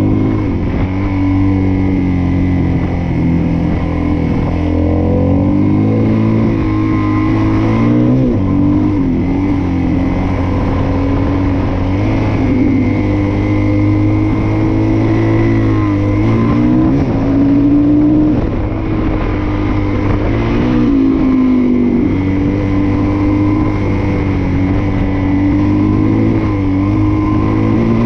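Suzuki DR-Z400S's single-cylinder four-stroke engine running under way, its revs rising and falling again and again as the throttle opens and closes.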